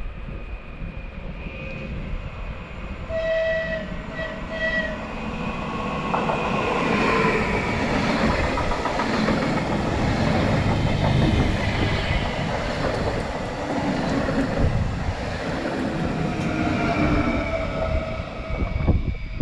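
PKP Intercity ED160 electric multiple unit sounding two short horn blasts on its approach, then running past with a loud rumble and the rhythmic clatter of its wheels on the rails.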